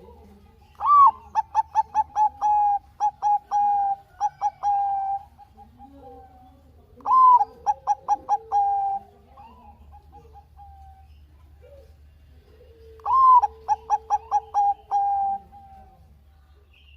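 Zebra dove (Bangkok-strain perkutut) singing three song phrases about six seconds apart, each an opening note followed by a quick run of repeated coos that slow and trail off.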